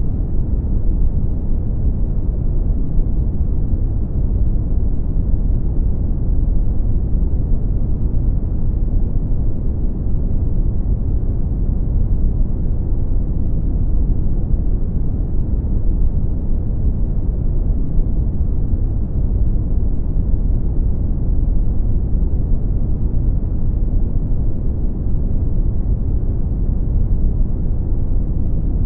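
Brown noise: a steady, deep rumbling hiss with most of its energy in the low end and little above the midrange, unchanging throughout.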